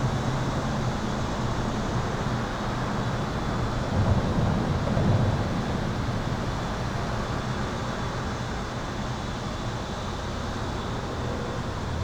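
Highway traffic passing overhead on an overpass: a steady low rumble of tyres and engines that swells as a vehicle goes by about four seconds in, then eases. A faint steady electrical hum sits underneath.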